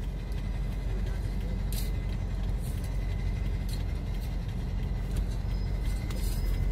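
A motor vehicle's engine running steadily, a low, even rumble, with a few faint clicks.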